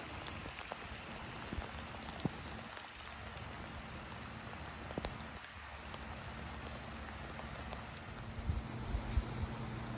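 Steady hard rain falling, with a few scattered sharp taps.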